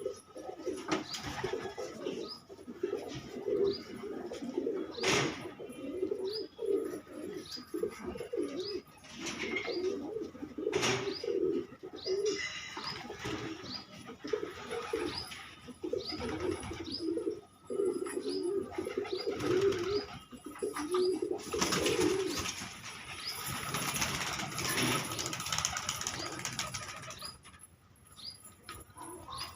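Fancy pigeons cooing over and over, with a faint high chirp repeating more than once a second behind them. A few sharp clicks are heard, and a stretch of wing-flapping rustle comes about two-thirds of the way through.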